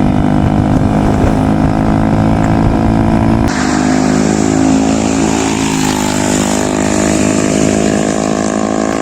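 Single-cylinder motorcycle engine with an SC Project aftermarket exhaust running steadily. About three and a half seconds in, the sound changes abruptly and turns brighter and thinner.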